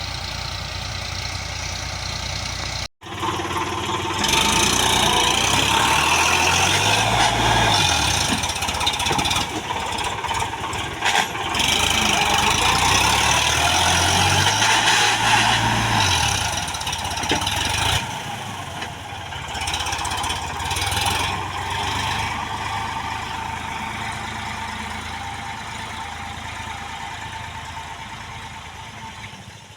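Sonalika tractor's diesel engine running, with a brief cut-out about three seconds in. It then runs louder, its pitch rising and falling twice as it revs, before settling lower and fading toward the end.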